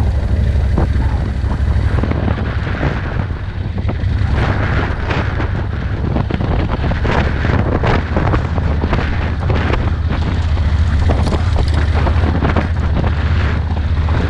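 Vehicle driving along a rough road: a steady low rumble with many small knocks and rattles, and wind buffeting the microphone.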